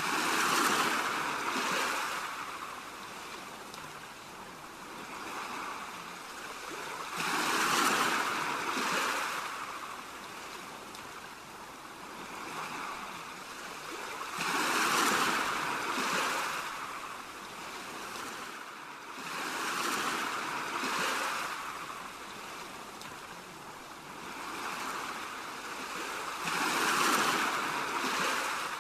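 Ocean waves washing onto a shore, each wave swelling and falling away in a slow rhythm, a large one about every six to seven seconds with smaller ones between.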